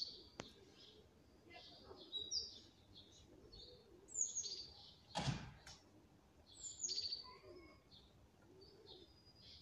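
Birds chirping in short, high, descending phrases that recur every two seconds or so. A single short thump comes about five seconds in.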